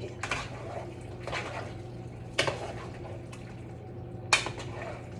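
A spoon knocking and scraping against a pot while pasta is gently stirred, with about four sharp clinks spread through, over a steady low hum.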